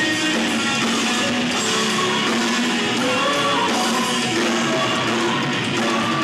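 Live rock band playing, with electric guitar prominent over the rest of the band.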